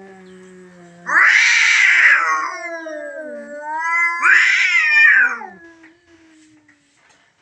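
Stray tomcat caterwauling: two long, drawn-out wavering yowls that bend up and down in pitch, after a low moaning call that trails off in the first second.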